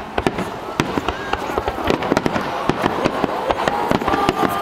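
Fireworks display in its grand finale barrage: a dense, unbroken run of sharp bangs and crackles, several a second, with some wavering pitched tones among them.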